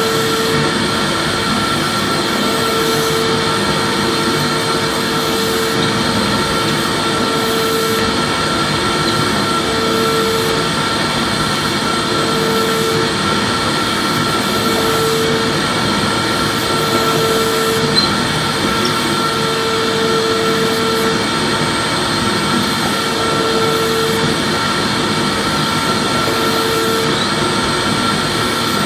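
Vacuum cleaner motor running steadily, a constant rushing drone with a lower tone that swells in and out every second or two.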